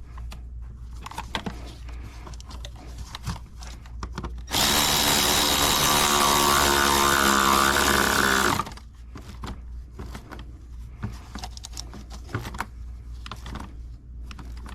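Handheld power tool, a drill-type driver, running steadily for about four seconds starting about four and a half seconds in, amid light metallic clicks and knocks of tools and parts being handled.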